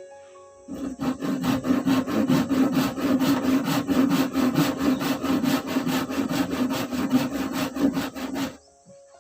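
Hand sawing in fast, even strokes of about four a second, starting about a second in and stopping abruptly near the end.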